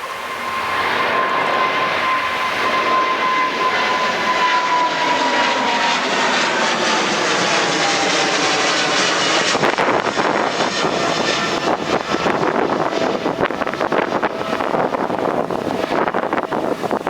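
Jet airliner passing close, its loud engine noise swelling about a second in, with a whine that slowly falls in pitch as it goes by. In the second half, wind buffets the microphone.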